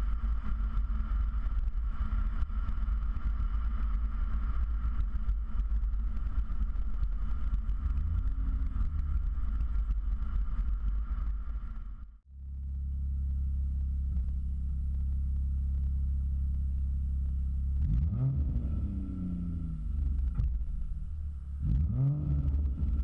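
Ford Fusion Sport's 2.7-litre twin-turbo V6 idling through a Magnaflow axle-back exhaust with the factory resonators deleted. It gives a brief rev about 8 s in, cuts off abruptly just after 12 s, resumes idling, then gives two short throttle blips near the end.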